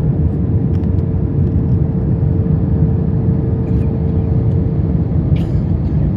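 Steady low rumble of airflow and engine noise inside an Airbus A321 cabin during descent, heard from a window seat, with a faint steady hum that fades out about five seconds in.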